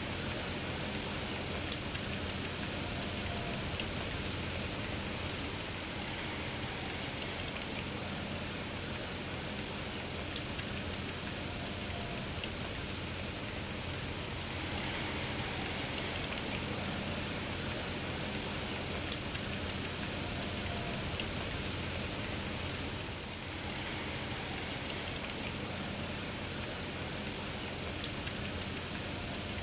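Steady rain falling, an even hiss with no letup. Four sharp ticks stand out above it, about nine seconds apart.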